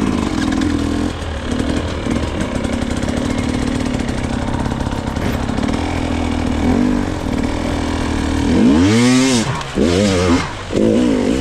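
Dirt bike engine running under light throttle on a trail ride, then one sharp rev that rises and falls about nine seconds in, followed by short throttle blips near the end.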